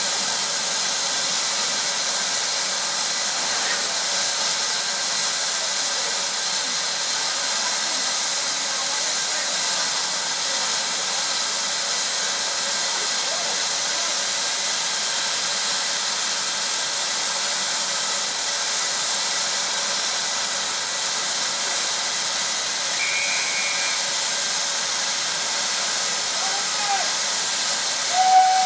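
Steam locomotive standing and hissing steam in a steady, high hiss. A steam whistle begins to sound right at the end.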